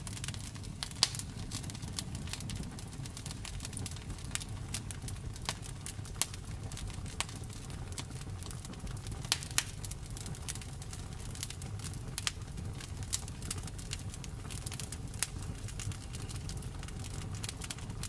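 Wood fire in a fireplace crackling: irregular sharp pops and snaps over a steady low rumble, with a loud pop about a second in and two close together near the middle.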